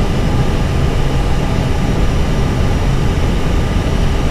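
Steady cockpit noise of an Airbus A320 in flight on approach: a low, even rumble of airflow and engines, with faint steady hum tones above it.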